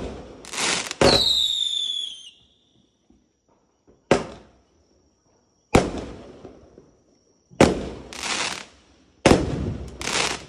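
Aerial fireworks firing in a sequence: a sharp launch crack every one to three seconds, most followed about half a second later by a loud crackling burst. About a second in, one shot carries a high whistle that falls in pitch and fades.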